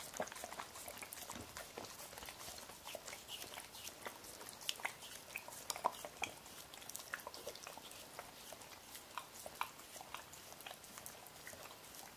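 Boxer puppy licking and lapping whipped cream off a spoon: a run of small, irregular wet smacks and clicks of tongue and mouth.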